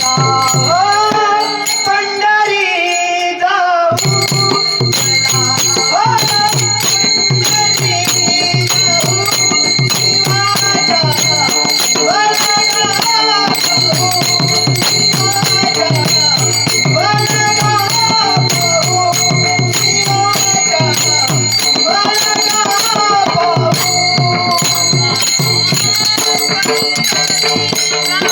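A girl singing a Marathi abhang, a devotional song, in repeated rising and falling phrases over a steady rhythm with jingling percussion.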